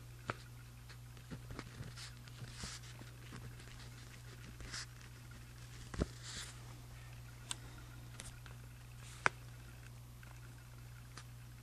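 Pen writing on journal paper: soft scratching strokes in short runs, with a few sharp taps or clicks in between, over a steady low hum.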